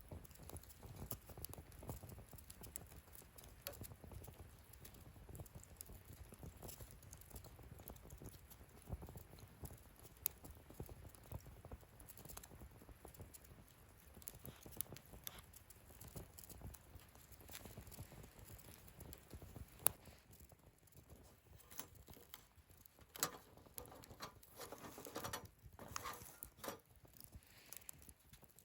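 Wood fire burning in a fire pit, crackling softly with scattered small pops over a low rumble of flame. There is one sharp pop about two-thirds of the way in, and a denser run of crackling near the end.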